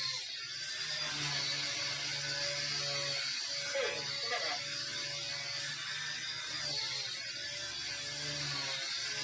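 XK K110 micro RC helicopter flying in idle-up: a high-pitched whine from its electric motor and rotor, with a steady low hum underneath. The pitch dips and rises several times as throttle and collective pitch change.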